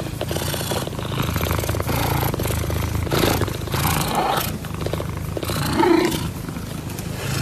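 An animal's low, rumbling vocal sound that goes on throughout, with a few short, higher-pitched calls about three, four and six seconds in.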